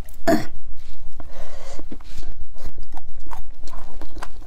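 A person chewing a mouthful of spicy vegetable roots and chicken-foot tendons close to the microphone: a steady run of wet mouth clicks and chewing noises.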